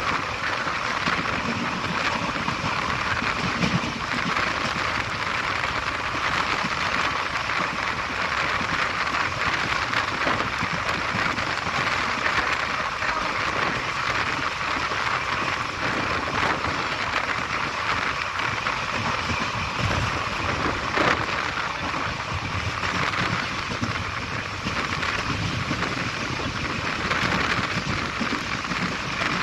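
Steady rush of wind and rolling wheel-on-rail rumble from an Indian express train's passenger coach running at speed, heard at its open door. A single sharper knock comes about two-thirds of the way through.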